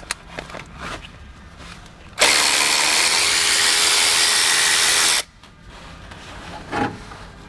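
A handheld power driver runs steadily for about three seconds and then stops, backing out the 8mm bolt that holds the camshaft position sensor on a Mack E-Tech engine. A few light metal clicks come before it.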